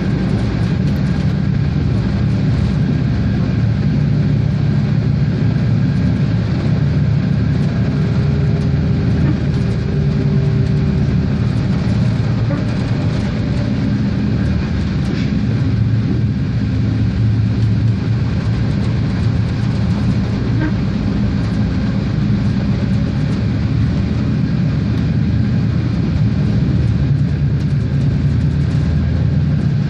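Regiosprinter diesel railcar under way: a steady low engine drone over continuous rolling noise from the wheels and track.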